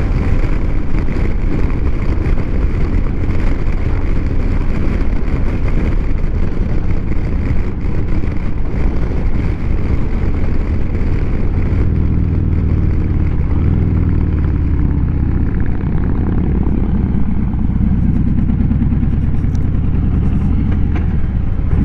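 Motorcycle engine running at road speed under steady, heavy wind rush. From about halfway through, the engine's low pulsing note stands out more clearly above the wind.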